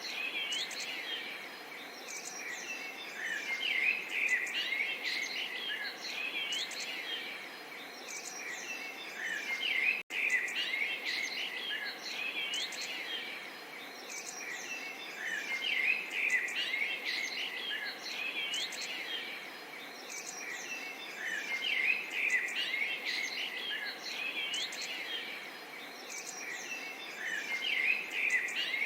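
A chorus of small songbirds chirping and twittering continuously, many short rising and falling calls overlapping, over a faint steady wash of babbling water. The sound breaks off for an instant about ten seconds in.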